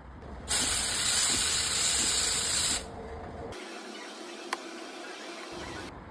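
HiBREW H10 Plus espresso machine's steam wand hissing in one loud burst of a little over two seconds that starts and stops abruptly. A quieter hiss follows, with a single sharp click partway through.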